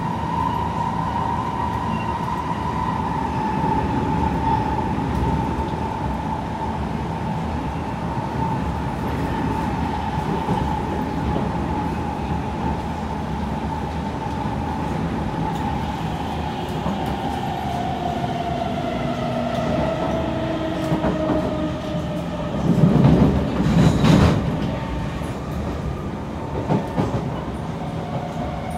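Kawasaki C151 electric train running, heard from inside the carriage: a steady rumble under a motor whine that falls slowly in pitch over the second half as the train slows. A loud clatter of wheels over the rails comes about 23 seconds in, with a few lighter knocks later.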